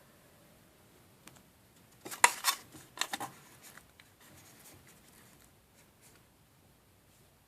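Crisp clicking and rustling of small objects being handled, in a cluster of sharp ticks about two seconds in that lasts roughly a second, then a few faint ticks.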